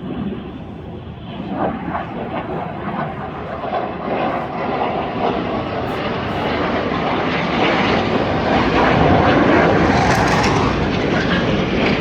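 Swiss Air Force aircraft approaching and passing overhead: a rushing engine noise that grows steadily louder, loudest about nine to ten seconds in.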